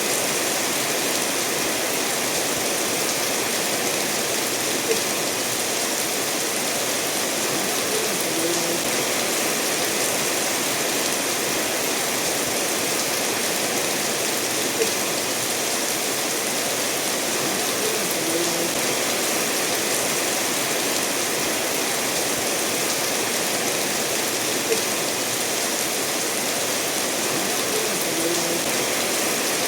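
Steady rainfall together with a stream running over stones, an even hiss and rush of water, with a faint tick about every ten seconds.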